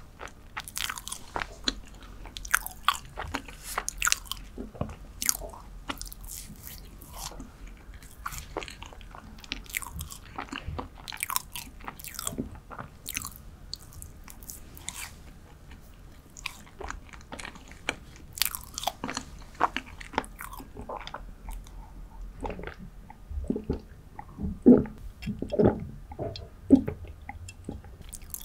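Close-miked chewing of dark chocolate cheesecake: many quick, wet mouth clicks and smacks, with a few louder ones near the end.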